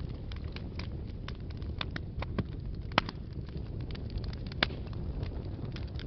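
Wood fire burning in a fireplace: a steady low rumble of flames with frequent crackles and snaps, the sharpest pop about three seconds in.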